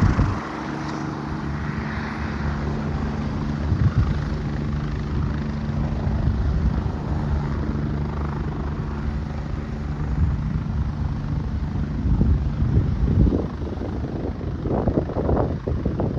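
Helicopter that has just landed, its engine and rotor running with a steady low tone as it begins to power down. Uneven low thumps come in over the last few seconds.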